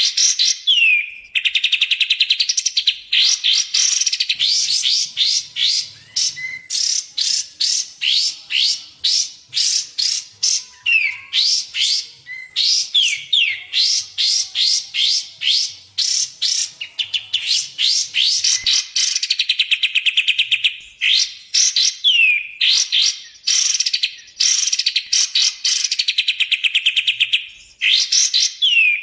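Recorded songs of kapas tembak and cucak jenggot bulbuls: fast, high buzzy trills alternating with long runs of quick, sharp chattering notes, with only brief pauses.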